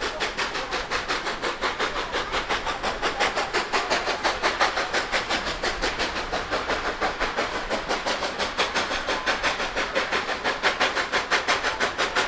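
Narrow-gauge steam locomotive working along with a rapid, even exhaust chuff, about six beats a second.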